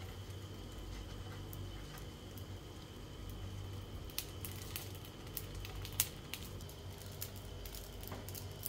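Rice-paper rolls frying in a pan: light crackles and pops from the hot oil, becoming more frequent about four seconds in, with one sharper pop about six seconds in. A steady low hum runs underneath.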